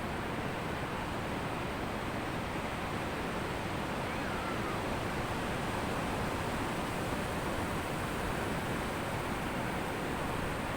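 Sea waves washing on a beach: a steady, even surf noise with no single distinct crash.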